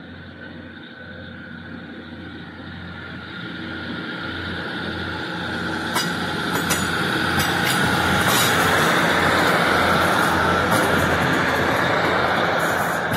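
Northern diesel multiple unit running through the station without stopping. Its engine drone and wheel noise grow steadily louder as it approaches, then it passes close by with sharp clicks of the wheels over the rail joints from about halfway, loudest in the second half.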